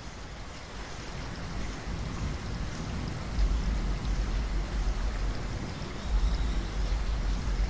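Steady rain falling with an even hiss. A deep low rumble under it swells about halfway through and again near the end.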